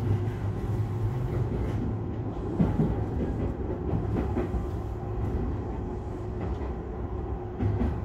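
Tobu line express commuter train running at speed, a steady rumble of wheels on rails with a faint steady hum and a few short clicks from the track.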